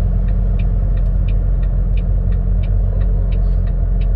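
Steady low rumble of a semi-truck's diesel engine and drivetrain, heard from inside the cab, with a light regular ticking about three times a second.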